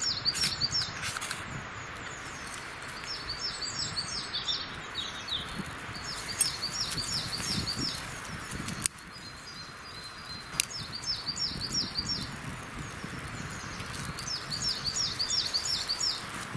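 A small songbird sings short phrases of quick repeated high notes about every three to four seconds, over a steady hiss with a few light clicks and snaps.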